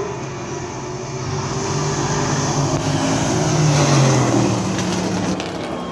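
A field of race trucks' engines running together and revving up as they accelerate away at the start of the race, rising to their loudest about four seconds in.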